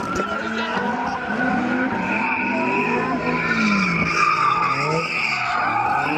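A car engine revs up and down over and over while its tires keep squealing, typical of a car spinning donuts.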